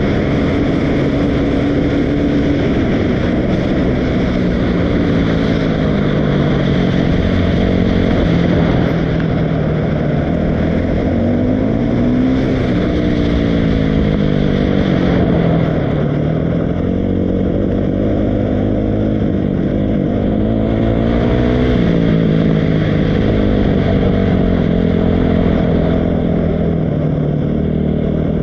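Dirt bike engine running under changing throttle, its pitch climbing and dropping again several times over the stretch.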